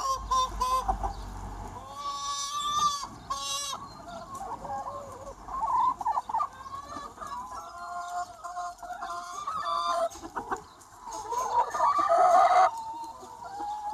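A large free-range chicken flock, hens clucking and calling over one another without pause. The loudest calls come near the end and break off suddenly.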